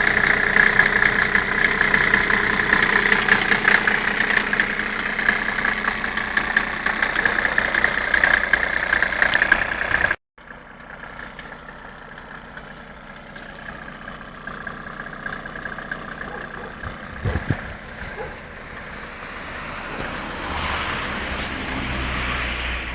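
Mercedes-Benz W140 S-Class six-cylinder turbodiesel idling after a cold start at −10°C. It runs loud and steady for about ten seconds, then, after a sudden break, goes on more quietly with a couple of knocks and grows louder near the end.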